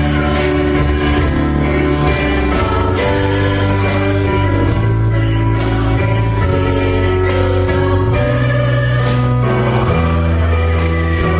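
Christian worship song: voices singing together as a choir over instrumental accompaniment with a steady beat.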